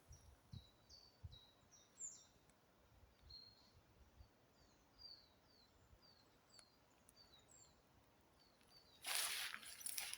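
Songbirds singing faintly in woodland, a scatter of short high notes that each fall in pitch. Near the end comes a louder rustle lasting about a second.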